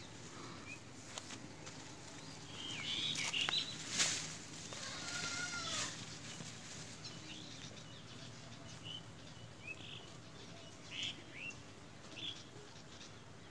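Small birds chirping and calling, with a sharp click about four seconds in.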